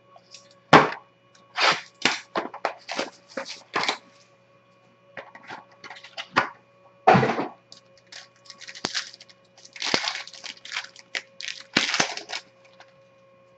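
Crinkling and tearing of the wrapping on a sealed trading-card box and pack as it is ripped open. The sound comes as irregular clusters of sharp crackles.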